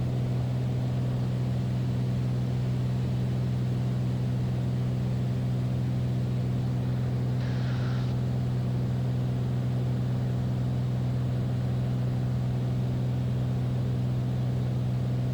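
Steady drone of a Beechcraft Bonanza's piston engine and propeller heard inside the cabin, an unchanging low hum. A faint brief hiss comes about eight seconds in.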